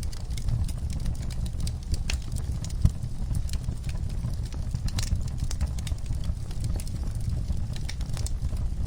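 Wood fire burning in a fireplace, crackling with many irregular sharp pops over a steady low rumble; one louder pop about three seconds in.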